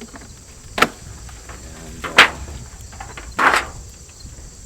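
Three sharp knocks and scrapes of wooden beehive parts being handled, about a second and a half apart, over a steady high chirring of crickets.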